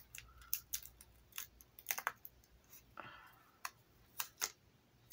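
Light, irregular clicks and taps of small craft-kit pieces being handled and pressed on a tabletop.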